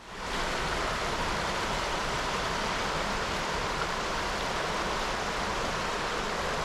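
Small moorland stream running, a steady rush of water that fades in at the start.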